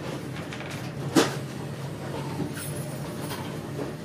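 Inside a passenger coach of an InterCity 125 (HST) moving off from a station: the steady low hum and rumble of the train rolling slowly, with a single sharp knock about a second in.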